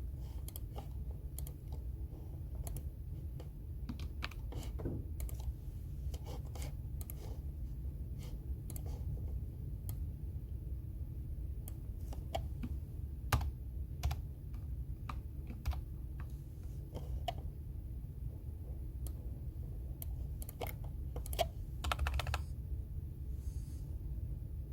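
Computer keyboard typing: irregular keystrokes, with a quick run of keys about three-quarters of the way through, over a steady low hum.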